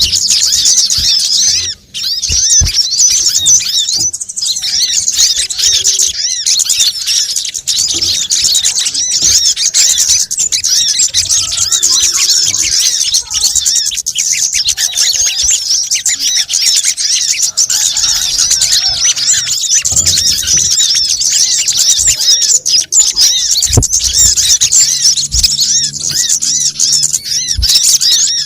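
Dense, continuous high-pitched chattering and chirping of several small songbirds, from a looped bird-lure recording, with a brief break about two seconds in.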